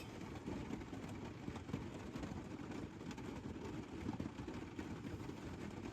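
Light rain falling on a truck camper's roof, a steady dense patter of drops.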